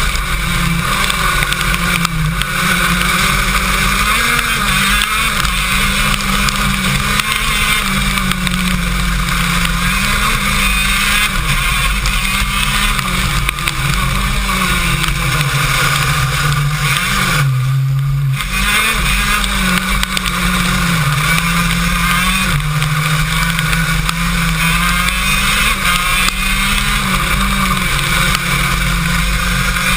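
KZ2 shifter kart's 125cc two-stroke engine recorded onboard, its note rising and falling as it revs up and down through the corners, over a steady hiss of wind and rain. About eighteen seconds in, the engine note drops briefly as the throttle is lifted, then picks up again.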